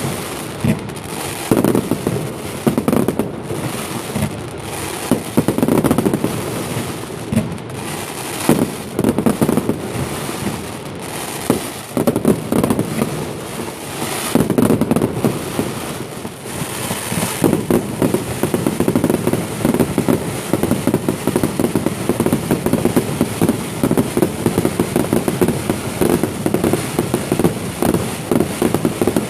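Fireworks display: a series of bangs and booms, turning about halfway through into dense, rapid crackling.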